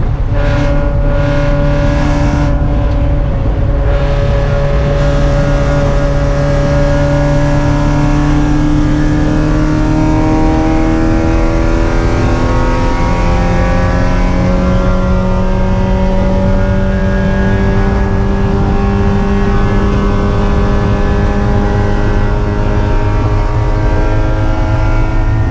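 Spec Miata's four-cylinder engine running hard at high revs through a long pull, its pitch climbing slowly over the first half and then holding high.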